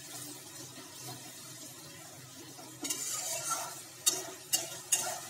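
Onion-and-spice masala paste sizzling in oil in a kadhai as a metal spatula stirs it, at the stage of frying the masala until the oil separates. About three seconds in there is a louder spell of scraping and sizzling, then a few sharp taps of the spatula against the pan.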